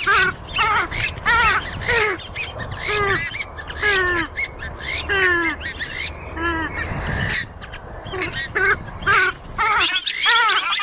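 Grey-headed swamphen calling: a rapid series of loud, nasal, downward-sliding squawks, about two a second, over a faint steady high whine.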